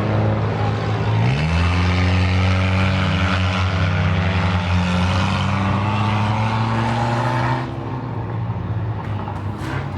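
Claimer-class race cars running laps on the oval. About a second and a half in, an engine's pitch rises as it accelerates and then holds steady. Near three-quarters through, the engine sound drops away as the cars move off.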